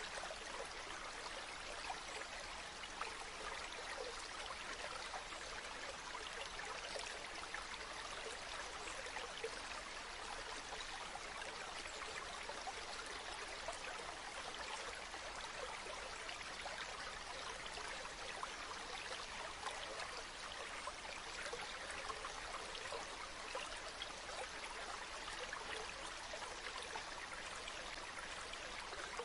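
Running water: a steady, even rush flecked with fine splashing, like a stream or waterfall.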